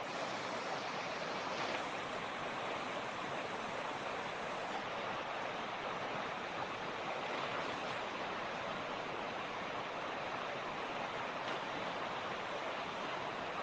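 Mountain creek rushing steadily over rocks, an even hiss of running water.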